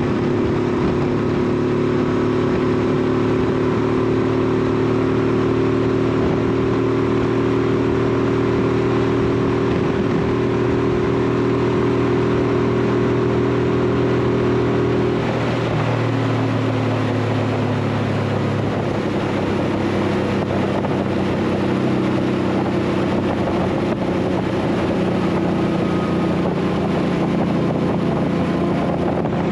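Honda VT1100 Shadow Ace Tourer's V-twin engine running steadily under way. About halfway through, the engine note drops and shifts, then settles into a steady lower run.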